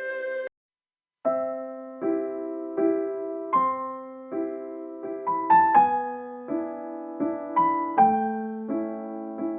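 Background music: a held woodwind note cuts off about half a second in, and after a brief silence a piano starts playing slow, gentle chords, a new note or chord roughly every second.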